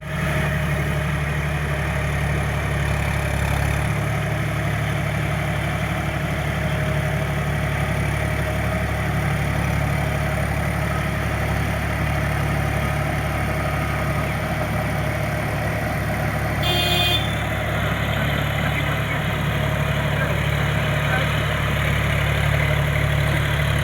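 Tractor diesel engine running steadily at a low, even idle. A short high-pitched tone sounds briefly partway through.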